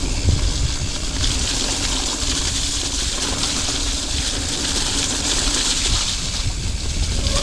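Mountain bike rolling over a wet moorland track: a steady hiss of tyres on wet ground, which grows about a second in, over a low rumble of wind buffeting the camera microphone.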